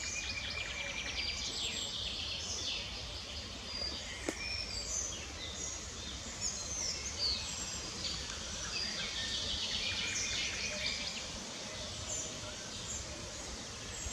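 Several small birds singing and chirping, with many short, high, quick phrases overlapping, over a steady low background noise. One sharp click about four seconds in.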